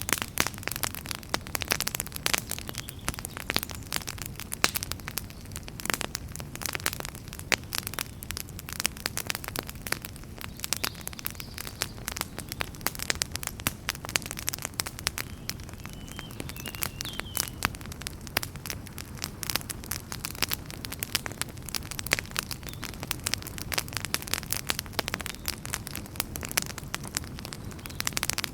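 Wood fire in a fireplace crackling: a dense, irregular run of sharp pops and snaps over a low, steady rumble of burning.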